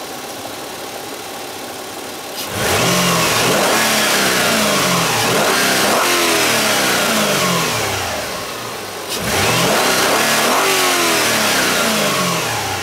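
2004 Hyundai Sonata's 2.7-litre V6 idling, then revved in a run of throttle blips starting about two and a half seconds in. It drops back toward idle around nine seconds, is revved again, and settles toward idle near the end.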